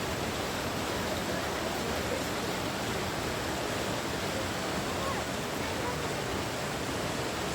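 Steady rushing of flowing water, even and unbroken, with faint distant voices.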